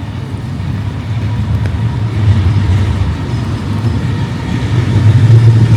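A vehicle approaching on the street, its low rumble growing steadily louder.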